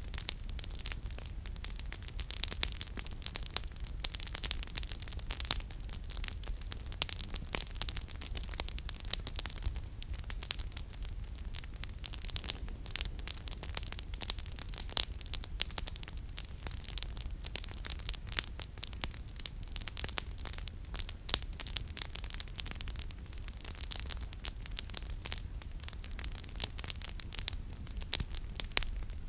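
Campfire with burning firewood crackling, dense quick snaps and pops with a few sharper, louder ones, over a steady low rumble.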